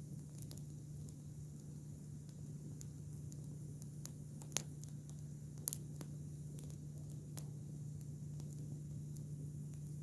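Campfire of green, freshly cut Cudrania (silkworm thorn) branches burning, with sparse crackles and small pops; two louder pops come a little after the middle. A steady low hum runs underneath.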